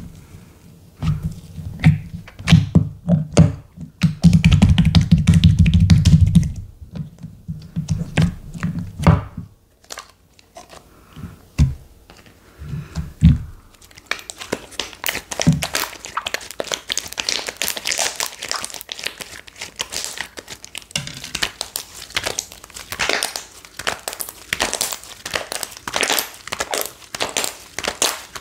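Hands working slime: soft, low squishing presses for the first third, then, about halfway, a dense run of crackling, crinkling pops as the slime is stretched and squeezed.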